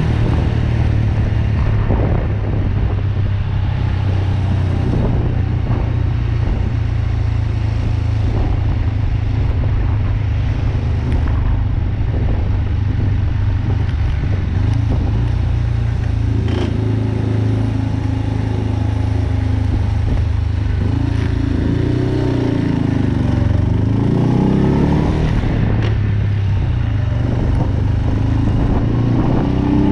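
BMW R27's 250 cc single-cylinder four-stroke engine running under way. Its note rises and falls with the throttle, most plainly about three quarters of the way through and again at the end.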